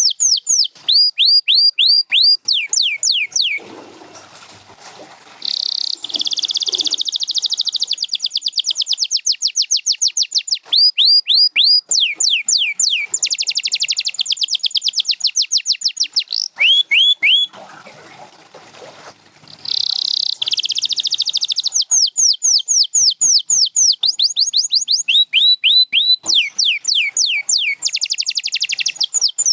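Canary singing: long phrases of rapidly repeated downward-sweeping whistled notes alternating with fast rolling trills, each run of notes changing to a new one every second or two, with short pauses about four seconds in and again just before the twentieth second.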